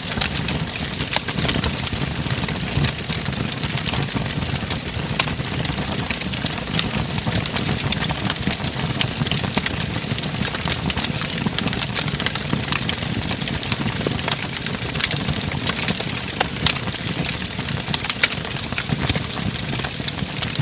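Wood fire in a fireplace crackling: many quick, irregular pops and snaps over a steady low rumble of the flames.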